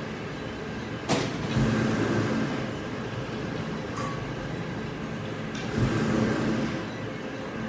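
Factory machinery running steadily, with a sharp knock about a second in, lighter clicks later, and two louder surges of rumbling around two and six seconds.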